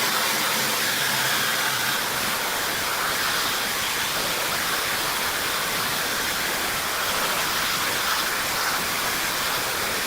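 Rizzdeek high-speed hair dryer with a brushless motor running steadily while drying hair: a loud, even rush of blown air.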